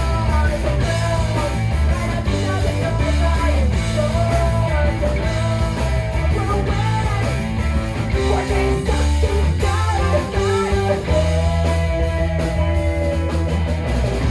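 Live rock band playing: electric guitar and bass under a voice singing long, held, gliding notes.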